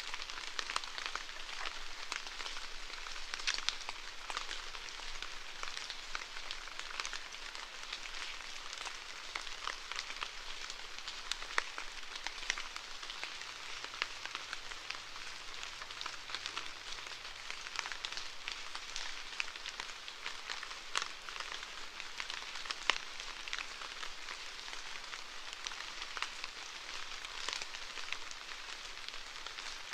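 Steady rainfall, a constant hiss thick with many small, sharp drop hits.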